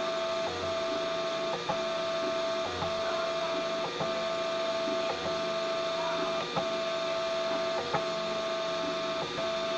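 3D printer's stepper motors running with a steady whine, broken by a short click and shift in tone about once a second as the moves change.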